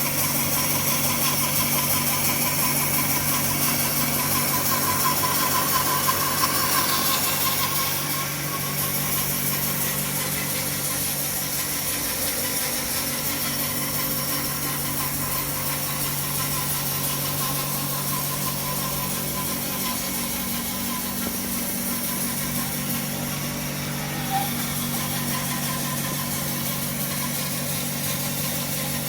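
Power saw running steadily while cutting Brazilian purpleheart wood, a held motor hum under a continuous high cutting hiss. The sound eases slightly about eight seconds in.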